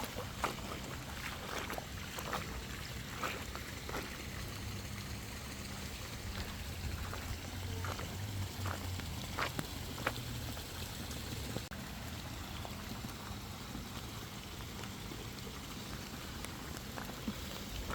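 Light rain falling steadily, with a low steady hum underneath and a few faint scattered taps.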